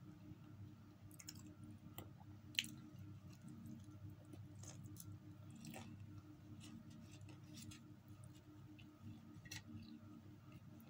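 Faint chewing and small clicks of a person eating khubz flatbread and instant noodles by hand, with one sharper click about two and a half seconds in, over a low steady hum.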